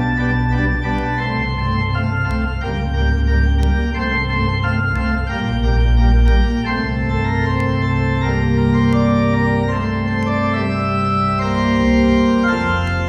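Organ playing the closing postlude: sustained full chords over deep bass notes, shifting every second or two.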